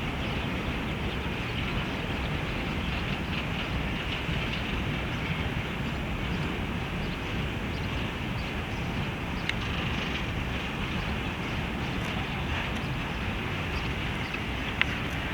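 Freight train rolling past: a steady rumble of wagon wheels on the rails, with a few faint clicks.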